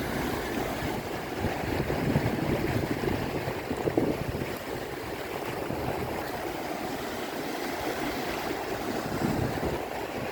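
Sea surf washing steadily onto a beach, a continuous noisy wash.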